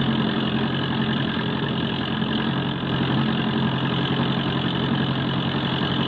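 Ford Model T's four-cylinder engine running steadily at an even pitch, heard on an old film soundtrack.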